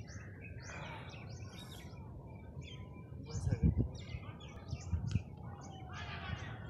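Many small birds chirping and twittering in short high calls throughout, over a low outdoor rumble. A few low thumps come about halfway through and again a little later, the loudest sounds here.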